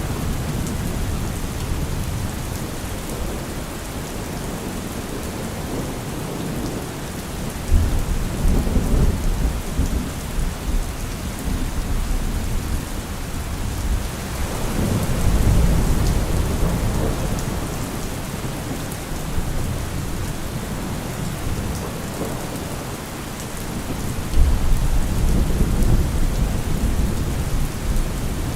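Steady heavy rain falling, with thunder rolling low three times: about eight seconds in, again around fifteen seconds, and near the end.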